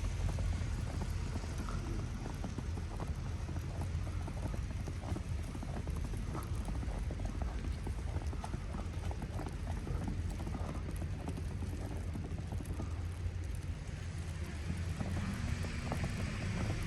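Footsteps crunching in fresh snow at a walking pace, many short crunches, over a steady low rumble of wind on the microphone.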